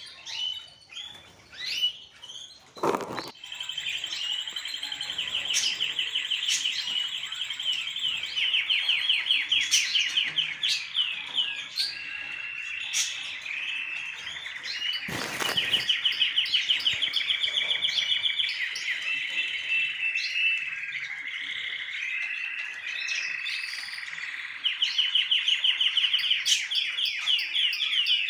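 Pet birds chirping and trilling continuously in fast runs of repeated notes, with two short knocks, about three seconds in and about halfway through.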